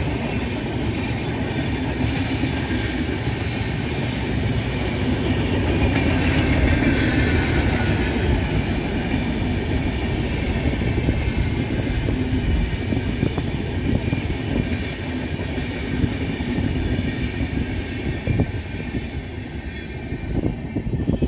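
An Indian Railways train running past close by: a steady rumble and clatter of wheels over the rails, with a few sharp clicks and a faint high whine over the top.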